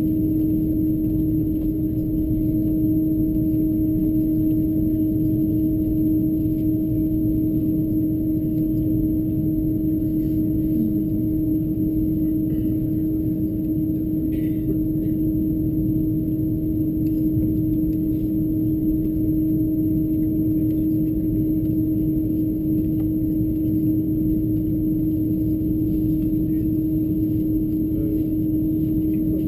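Cabin noise inside an Airbus A330-223 taxiing after landing: a steady low rumble from its Pratt & Whitney PW4000 engines at idle, with a constant hum running through it.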